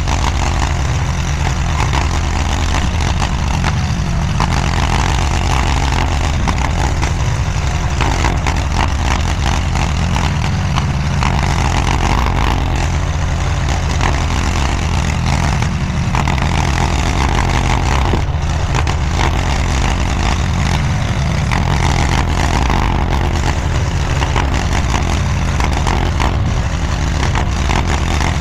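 Diggit SCL850 stand-behind mini skid steer running steadily at working throttle as it levels dirt. A mid-pitched sound swells over the engine about every three to four seconds.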